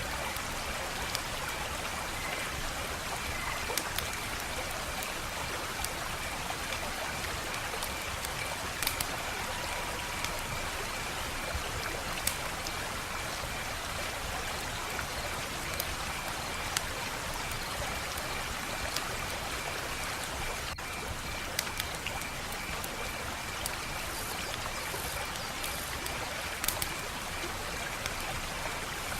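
Wood fire crackling: a steady hiss with sharp, irregular pops every second or two.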